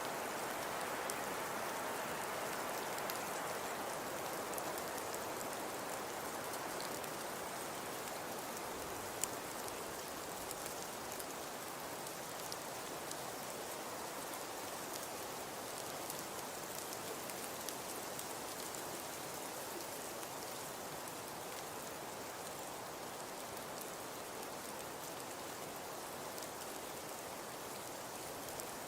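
Fireplace crackling: a steady soft hiss with scattered small crackles and one sharper pop about nine seconds in.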